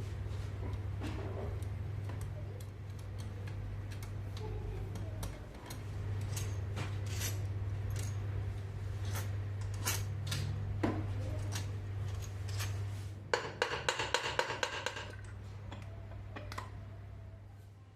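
Metal hand tools and engine parts clinking and clicking as they are handled on a bench, over a steady low hum. About 13 seconds in there is a rapid metallic rattle lasting under two seconds.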